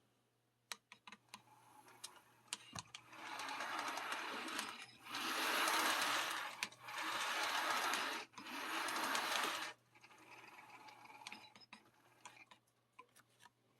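Bachmann On30 2-6-0 model locomotive and tender running on its track: a small electric motor whirring with clicks from the wheels on the rails. It builds about three seconds in, is loudest for about five seconds, then drops off near ten seconds.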